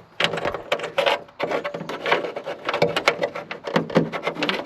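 Hands working a plastic washer-hose fitting loose: a quick, irregular run of small plastic clicks and knocks with rubbing.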